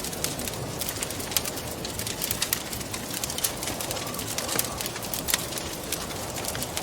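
Wood fire crackling with frequent sharp pops over a steady rushing wind. About two-thirds of the way through, a soft wavering hoot-like tone rises out of the wind.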